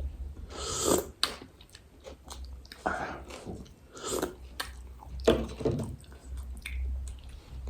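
Close-miked eating of panipuri: several separate bites and bursts of chewing, the crisp puri shells crunching with wet squishes from the filling water, over a low steady hum.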